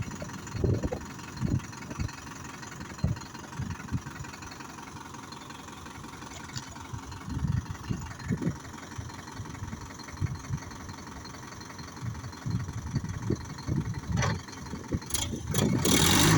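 Sonalika tractor's diesel engine running at idle, with irregular low thumps. A louder, harsher noise starts near the end.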